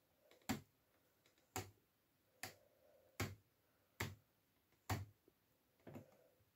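Seven sharp plastic clicks, about one a second, from the control panel of a Miele W433 washing machine as its programme and options are being set.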